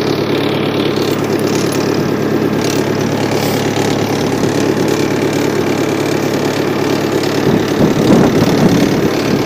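Homemade mini tractor's engine running steadily, getting louder and rougher for a moment near the end.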